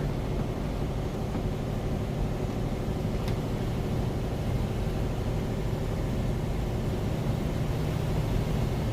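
Semi truck's diesel engine running steadily at low cruising speed, heard inside the cab with a constant low hum and road noise from the tyres in snow.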